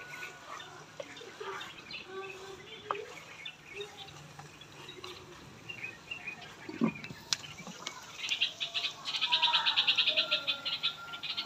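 Birds chirping, with a fast pulsing chatter about two seconds long near the end as the loudest sound. A few light clicks of a wooden spoon against a clay cooking pot.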